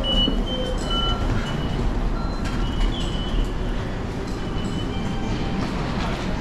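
An Odakyu Line train rumbling steadily through the station, with several short high-pitched tones sounding over it.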